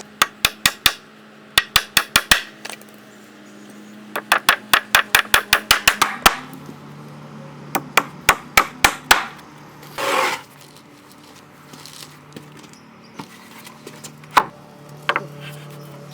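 A hammer driving nails into macrocarpa slats: quick runs of sharp strikes, about four or five a second, coming in four bursts with pauses between. About ten seconds in there is a short scrape, and near the end a few single knocks.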